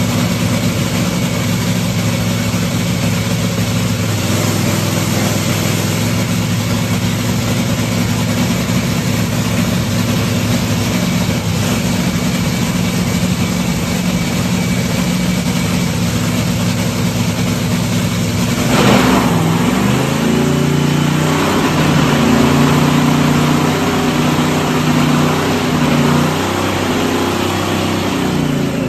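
Drag race car engine idling steadily in the pits. From about two-thirds of the way through, its pitch shifts up and down several times as the throttle is blipped.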